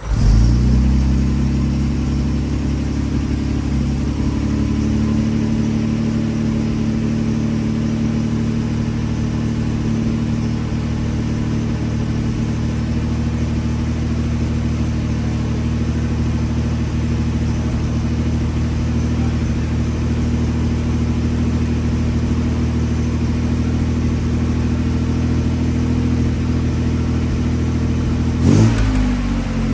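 1965 Austin-Healey 3000 Mk III's 2.9-litre straight-six firing up on a cold start, then running at a steady idle. The tone drops a little about four seconds in as it settles. Near the end there is one brief blip of the throttle.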